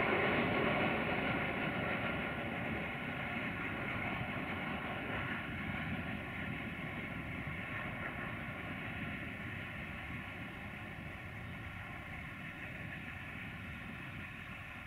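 Freight train hauled by an electric locomotive running along the line at a distance, its rolling noise slowly fading, with several steady high tones over it.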